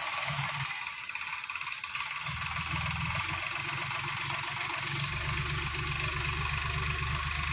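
Diesel engine of heavy machinery running steadily at idle over a constant hiss. Its low note comes in about two seconds in and grows stronger about five seconds in.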